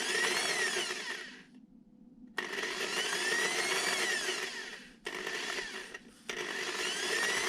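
A valve being lapped into its seat in the cylinder head with a power drill and lapping paste: four spells of spinning and grinding, the pitch rising and then falling in each.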